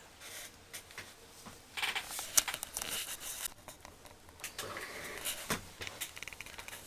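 Faint rustling and scattered light clicks in a small room, with the busiest stretches about two seconds in and again around five seconds in.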